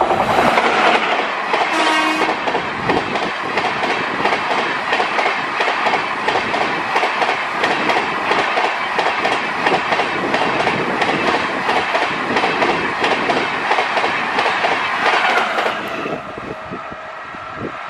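Amrit Bharat Express, a push-pull train with WAP-5 electric locomotives, passing at high speed: the coach wheels clatter over the rail joints in a fast, steady rhythm, with a short horn blast about two seconds in. The clatter drops away about sixteen seconds in as the rear locomotive goes by.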